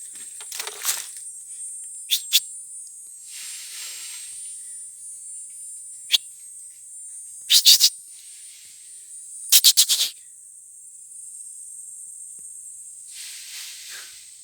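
Forest ambience: a steady high insect drone, broken by several short sharp bursts, the loudest a quick cluster of strokes about seven and a half seconds in and another near ten seconds, with two spells of soft rustling noise.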